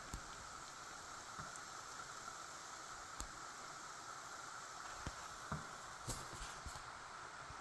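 Faint, steady hiss of rain falling, with a few separate drops or drips striking close by as short ticks and thumps.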